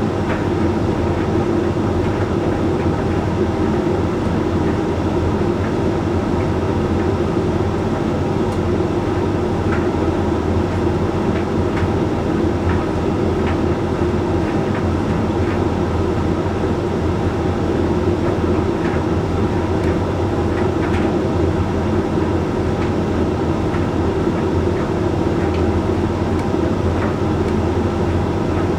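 Hoover Link X Care condenser tumble dryer running mid-cycle: a steady rumble and hum of the turning drum and motor, with a few faint clicks scattered through it.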